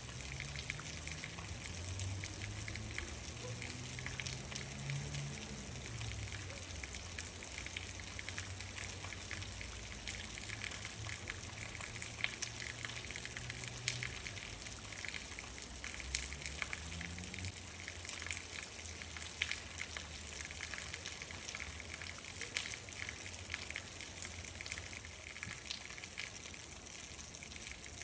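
Steady rain falling, with many single drops ticking sharply on a surface. A low hum runs underneath and fades out about halfway through.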